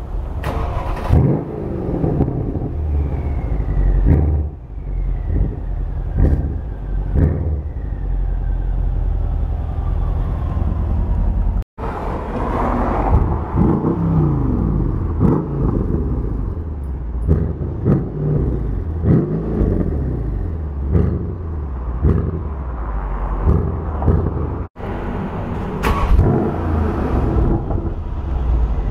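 Mercedes CLS 63 AMG's tuned twin-turbo V8 free-revved in short, sharp blips from idle, each rev rising and falling quickly, over and over, in a concrete parking garage.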